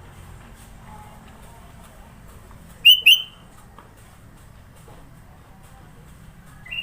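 Kutilang (sooty-headed bulbul) calls two short, loud whistled notes in quick succession about three seconds in, then starts another pair right at the end.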